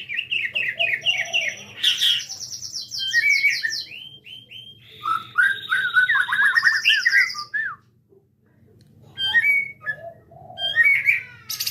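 White-rumped shama (murai batu, Jabo variety) singing a loud, varied song. It runs through quick strings of repeated notes, high trills and lower warbling phrases, with a short pause about eight seconds in before it resumes.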